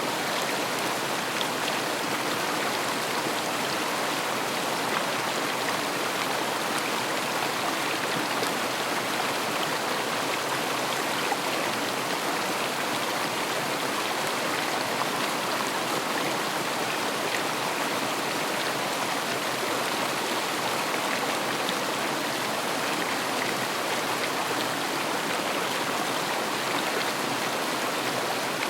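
River water flowing over stones, a steady rushing and splashing that does not change.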